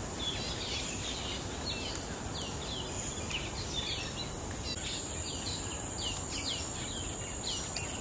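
Tropical forest ambience: a bird calling in a quick series of short falling chirps, closer together in the second half, over a steady high-pitched insect drone that grows louder about halfway through.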